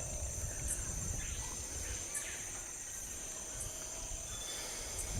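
Rainforest insects trilling steadily at a high pitch, with a faint extra pulse about every second and a half.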